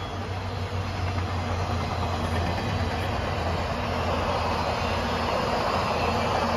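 Canadian Pacific Holiday Train's cars rolling past at speed: a steady rush of wheels on rails over a low, even hum. It gets louder about a second in as the last cars go by.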